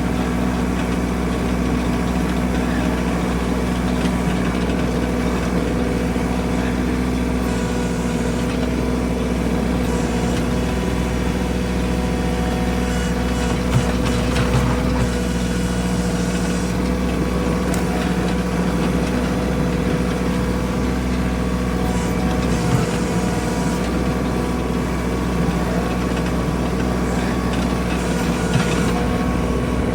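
Tractor engine running steadily while clearing snow from a driveway, with a few small knocks and clicks over it.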